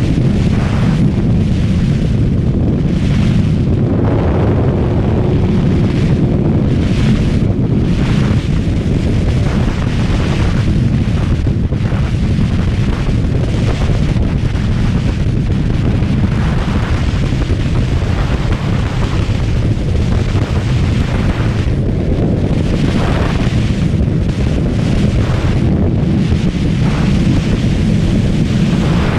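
Kawasaki ZX-636R's inline-four engine running while riding, with heavy wind noise on the microphone in uneven gusts over a steady low rumble.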